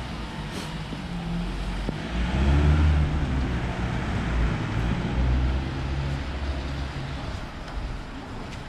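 Street traffic: a motor vehicle's engine running close by, its low rumble swelling about two seconds in and again around five to seven seconds in, over the general hum of the road.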